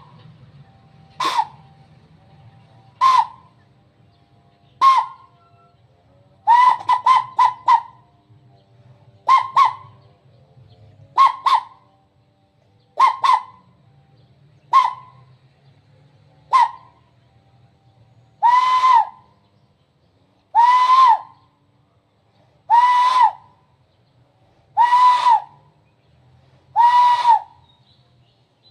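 A person imitating the call of a zebra dove (perkutut): short, arched coo notes repeated about every two seconds, with a quick run of four about a third of the way in. The notes become longer and fuller in the last third.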